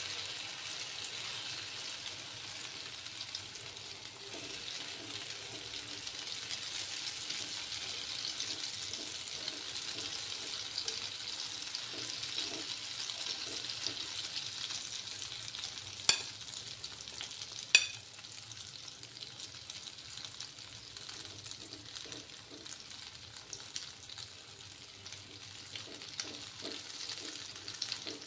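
Grated-potato pancake batter sizzling steadily in hot oil in a pan while a steel spoon scrapes and presses it flat, frying the first side. Twice, a little past the middle, about a second and a half apart, the spoon clicks sharply against the pan.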